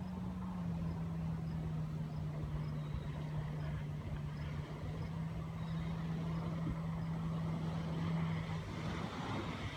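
Boat motor running at a steady pitch over a low rumble, its tone shifting about nine seconds in.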